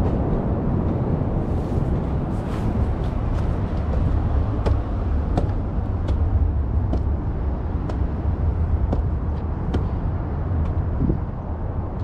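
Footsteps at a walking pace, light ticks coming a little under once a second, over a steady low outdoor rumble like passing road traffic.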